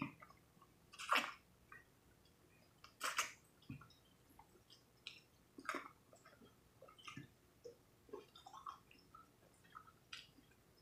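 Chewing and biting into fried chicken: scattered short, crackly crunches, the loudest about one and three seconds in.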